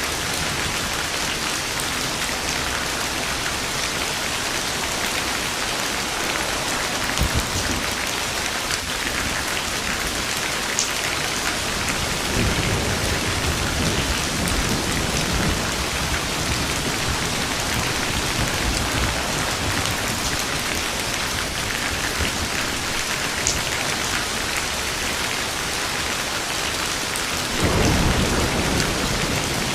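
Steady rain falling on a surface, with low rolls of thunder rumbling several times; the loudest roll comes near the end.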